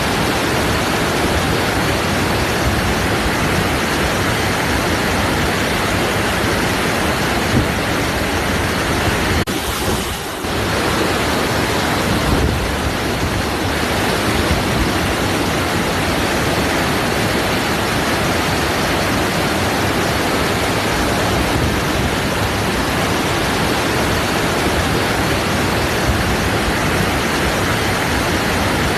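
Waterfall: falling water rushing steadily, an even full-range noise that briefly dips about ten seconds in.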